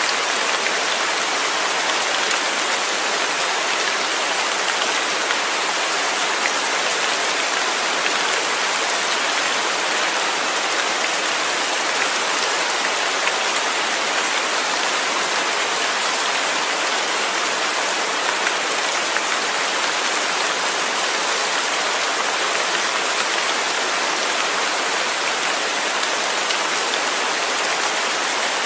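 Steady rain falling: a continuous, even hiss with no change in intensity.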